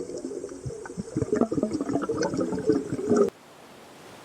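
Underwater bubbling and gurgling with many small pops. It cuts off suddenly about three seconds in, leaving a faint hiss.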